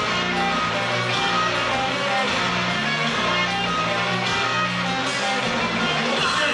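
Live noise-rock band playing loud, distorted electric guitars over a bass line, with no vocals.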